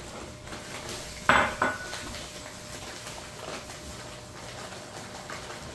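Kitchen handling sounds as a cup of Epsom salt is measured out. A measuring cup clinks sharply against a container a little over a second in, with a quick second knock and a short ring. Fainter knocks and rustles of handling come before and after.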